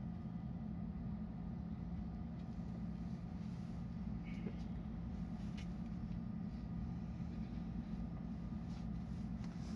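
Steady low hum of a stationary JR West 223 series electric train's onboard equipment, heard inside the carriage while the train is held after an emergency stop, with a few faint ticks.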